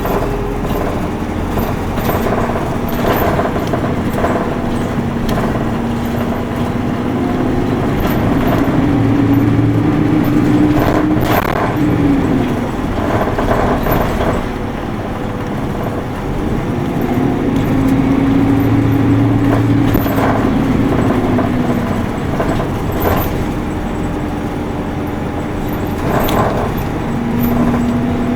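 Isuzu Erga Mio city bus's four-cylinder diesel heard from inside the cabin, pulling under load: the engine note climbs twice and drops back each time, with light rattles and clicks from the bus interior.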